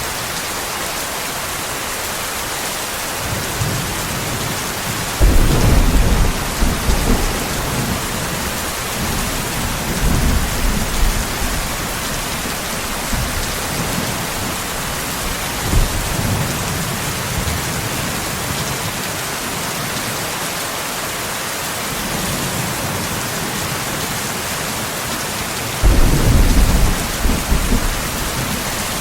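Steady heavy rain hissing, with thunder rumbling under it: a sudden loud clap about five seconds in that rolls on for a few seconds, weaker rumbles in between, and another loud clap near the end.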